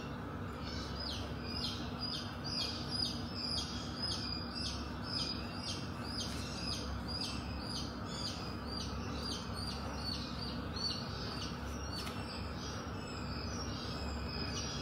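A bird chirping in a fast, regular series of short high notes, about two a second, over a steady low background hum.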